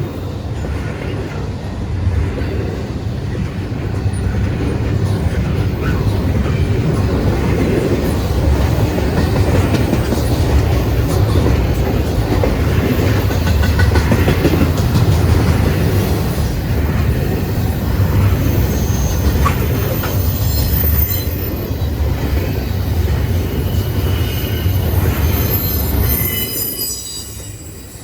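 Freight train cars rolling past at close range: a steady loud rumble of wheels on rail, with high-pitched wheel squeal near the end before the sound drops away.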